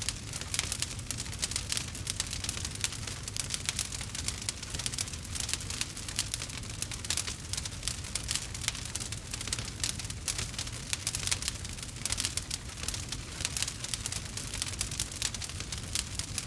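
Wood fire crackling in a fireplace: dense, rapid pops and snaps over a steady low rumble.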